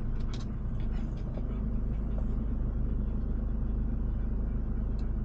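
Steady low rumble of engine and road noise inside a moving car's cabin, with a few light clicks near the start and near the end.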